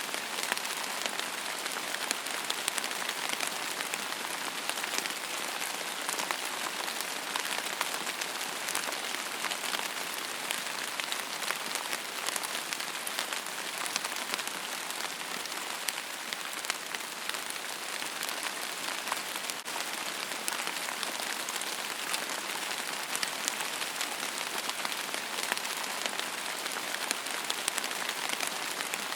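Steady rain falling on a hard surface, an even hiss full of fine, close drop patter, with little low rumble.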